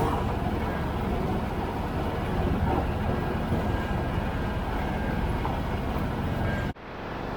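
Tractor engine running steadily under way. The sound cuts out abruptly near the end and fades back in.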